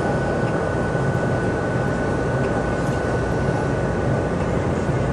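Steady vehicle interior noise: a tour bus's engine rumble and air-conditioning hum, even throughout, with a thin steady high whine over it.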